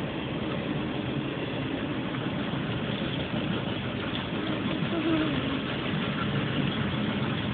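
CSX freight train of double-stack container cars rolling past, a steady running noise with no horn.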